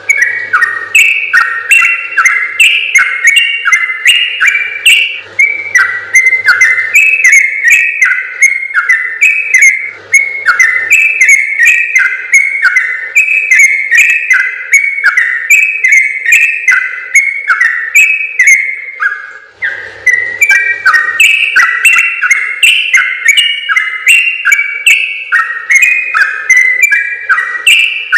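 Yellow-vented bulbul (trucukan) singing a long, rapid run of quick whistled notes that step up and down, the long 'ropel' song prized by bird keepers. There is one short pause about two-thirds of the way through.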